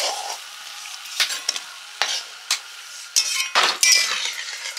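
Papri (flour crisps) frying in hot oil in a kadai, a steady sizzle. A metal spatula clinks and scrapes in the pan several times as the crisps are turned and lifted out, loudest near the end.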